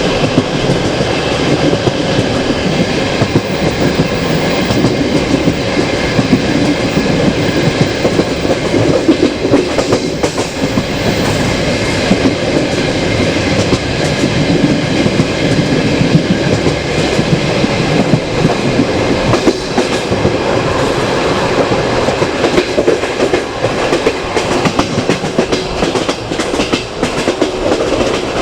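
Passenger train coach running along the track, the wheels rolling over the rails with a steady, loud running noise, heard from the coach window.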